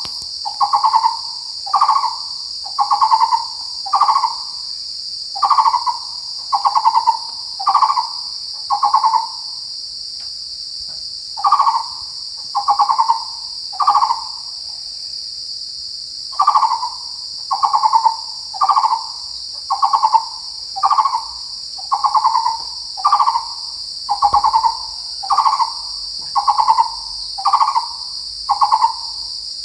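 Taiwan barbet calling: a hollow, knocking note repeated about once a second in long runs, with a couple of short pauses. Insects keep up a steady high buzz underneath.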